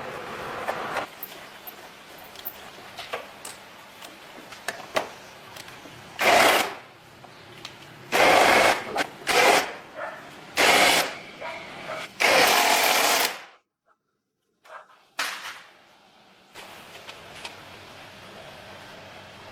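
Workshop tool sounds: light clicks and taps, then five loud, harsh spells of a power or air tool running, each a second or so long. The last spell is the longest, and soon after it the sound cuts out abruptly for about a second.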